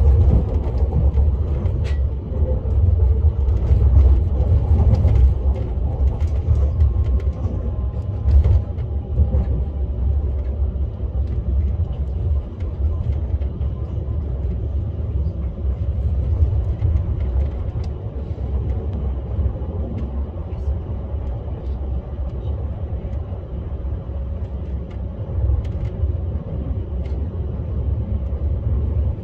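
KTX high-speed train running: a steady low rumble with a few faint clicks.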